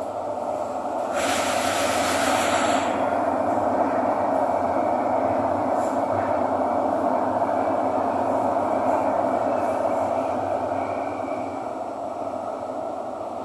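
Thomson–East Coast Line metro train running between stations, heard from inside the car: a steady rumble of wheels and motors. About a second in there is a brief high hiss, and a faint high whine follows through the middle.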